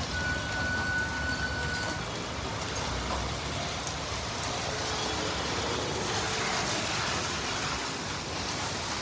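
Heavy rain falling in a city street, a steady hiss, with road traffic underneath. A thin, high steady tone sounds for about two seconds near the start.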